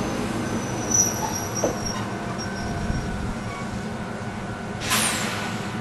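Ichibata Electric Railway electric train rolling to a stop at a platform: a low rumble with thin, high brake squeal a second or two in, then a short, sharp hiss of air about five seconds in.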